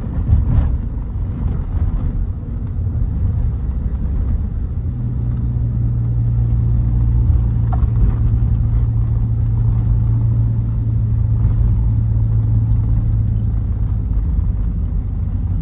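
A vehicle driving, heard as a low, steady rumble, with an engine-like hum that settles in about five seconds in and holds for most of the rest.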